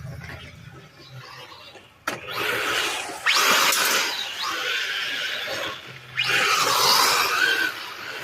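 Dikavey 1/12 scale RC rally car on a 3S battery driven hard: electric motor whine rising and falling with tyre noise. It comes in two loud runs, the first starting suddenly about two seconds in and the second just after six seconds.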